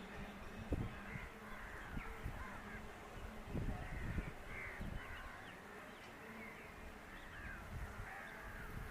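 Birds calling again and again in short, fairly faint calls, some of them caws, with scattered low thumps on the microphone.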